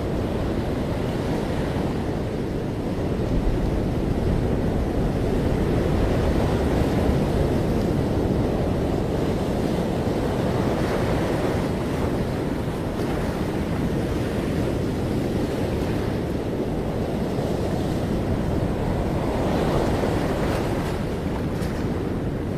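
Ocean surf washing onto a beach in a continuous rushing wash, with two stronger waves breaking about halfway through and near the end.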